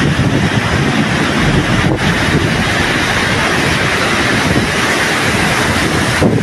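Loud, steady rushing noise with no clear engine tone, dipping briefly about two seconds in and again near the end.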